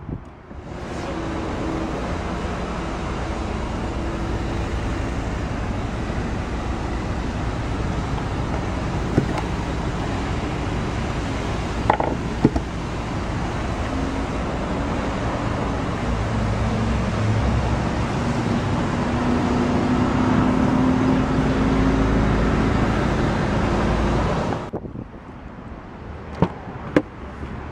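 Steady road traffic noise with a low vehicle rumble that swells slightly toward the end. It cuts off suddenly near the end, followed by a few sharp clicks.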